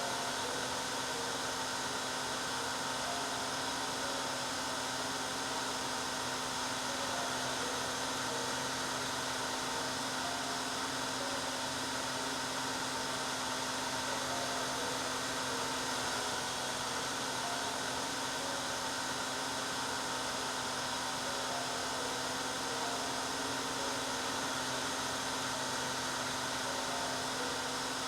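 Hair dryer running steadily: an even rush of air with a constant motor hum underneath.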